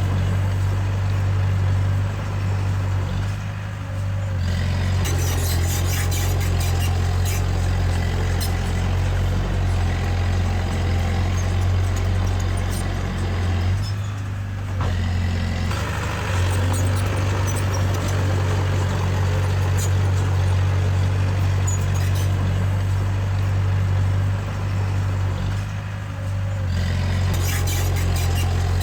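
Diesel engine of a Komatsu D20A crawler bulldozer running steadily under load, with metallic clanking from the tracks. The engine note dips briefly three times, about every eleven seconds, each dip followed by a burst of clanking.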